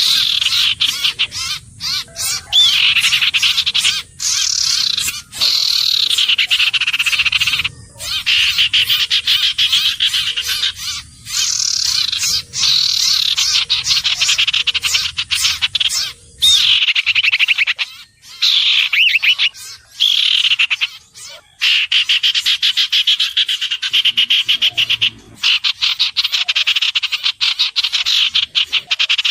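Common iora calling: rapid dry trills and whistled notes that slide down in pitch, repeated in bursts with short breaks between them.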